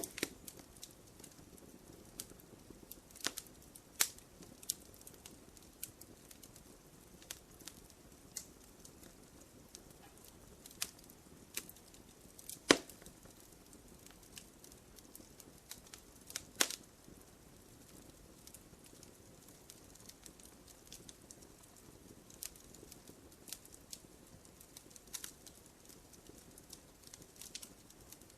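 Wood fire crackling in a fireplace: irregular snaps and pops over a faint low hiss, with a few louder, sharper pops.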